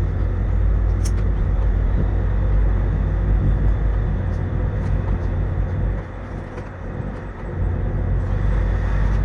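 Low, steady rumble of a tugboat's diesel engines, dropping off for a second or so about six seconds in before coming back.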